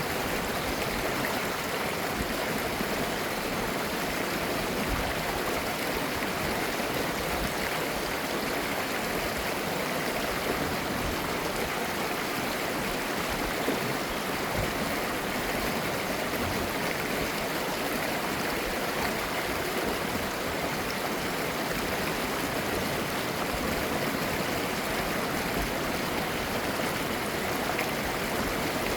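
Mountain valley stream flowing, a steady babbling rush of clear water with no letup.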